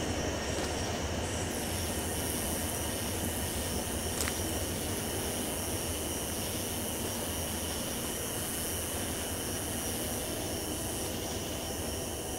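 Steady rumble of a train heard at a distance, slowly growing quieter, with a steady high buzz over it.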